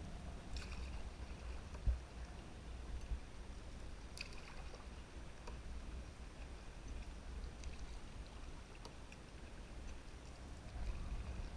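A canoe being paddled on a river, with a low wind rumble on the microphone throughout, scattered light splashes and drips, and a single knock about two seconds in.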